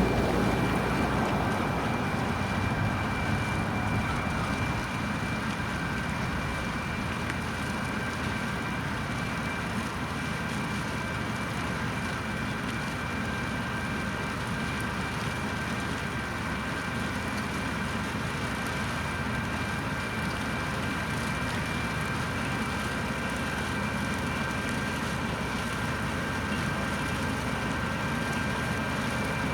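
Tractor and Standen T3 three-row trailed potato harvester working, a steady run of engine and machinery noise with two constant high whines over it. It is a little louder in the first few seconds, then holds level.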